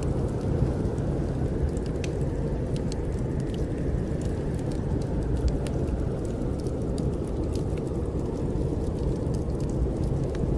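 Steady low rumble of snowstorm wind, with scattered sharp crackles and pops from a wood fire in a fireplace.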